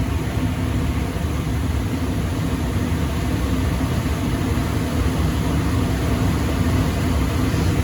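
Residential furnace still running steadily after the burners have shut off on a satisfied thermostat: an even low hum with air noise.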